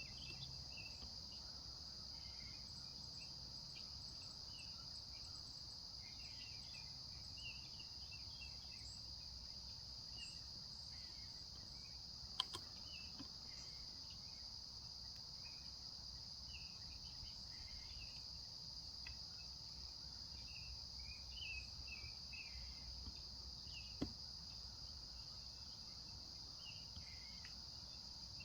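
Faint, steady outdoor insect chorus: a continuous high trill, with scattered short chirps. Two sharp clicks break through, one near the middle and one near the end.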